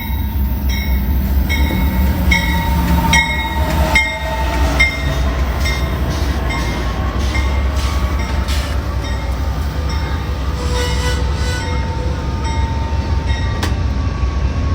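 Amtrak passenger train rolling into the station with a steady low rumble. A bell dings about once every three-quarters of a second for the first few seconds, and thin squeals slide up and down above the rumble.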